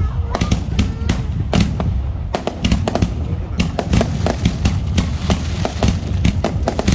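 Fireworks display: aerial shells bursting overhead in a rapid, irregular series of bangs, several a second, over a continuous low rumble.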